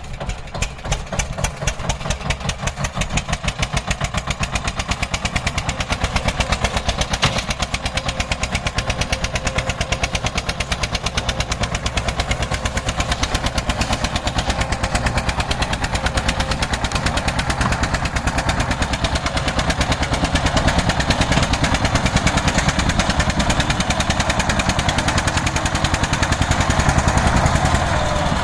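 Eicher tractor's diesel engine running with a rapid, even chugging beat, slowly getting louder toward the end.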